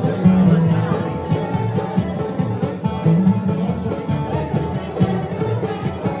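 Live acoustic bluegrass band playing an instrumental passage without vocals, with picked guitar and banjo.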